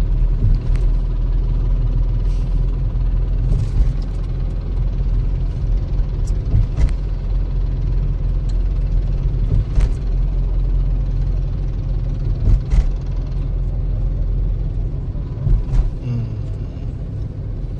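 Steady low rumble of a vehicle in motion: road and wind noise that rises and falls slightly, with a few faint clicks.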